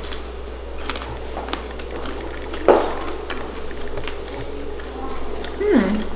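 A person chewing a bite of soft cheese topped with pomegranate seeds and walnut, with soft wet crunching clicks, then a falling "mmm" of enjoyment near the end.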